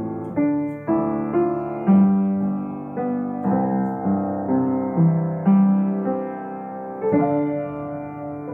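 Piano playing a slow, gentle tune, each note or chord struck sharply and left to fade, about one or two to the second.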